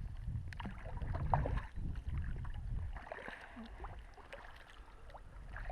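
Water sounds around a kayak: small splashes, drips and ticks against the hull, over a low rumble of wind on the microphone.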